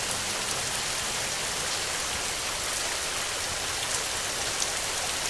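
Steady rain falling: an even hiss with a few sharper single drop taps.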